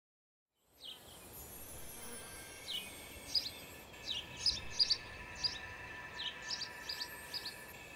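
Birds chirping: short, high, falling chirps repeated irregularly over a steady background hiss. The sound starts suddenly out of silence about a second in.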